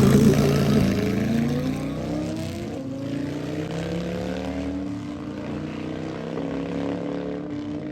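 Drag-racing motorcycle engine at full throttle, loudest at the start and then fading as it pulls away down the strip, its pitch climbing and dropping back several times as it shifts up through the gears.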